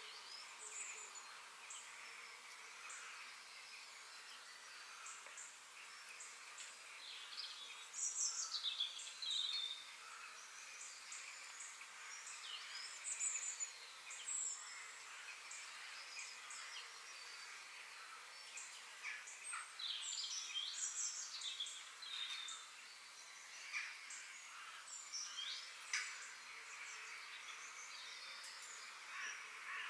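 Several forest birds singing and calling, with many short chirps and quick warbled phrases overlapping, over a steady high background hiss.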